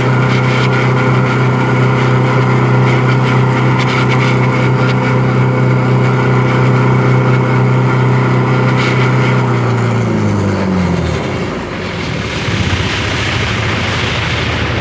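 Maxion turbo diesel engine of a Chevrolet S10 held at steady raised revs, then dropping back about ten seconds in and settling into a rattling diesel idle.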